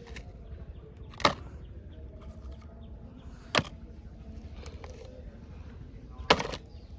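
Three sharp knocks a couple of seconds apart: muddy toy vehicles being dropped one by one into a collecting basket, over a steady low rumble.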